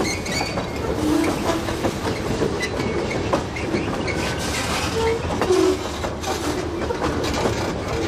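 Freight train led by two diesel locomotives rolling slowly along the track. Its wheels click over the rail joints, with a few short squeaks from the wheels.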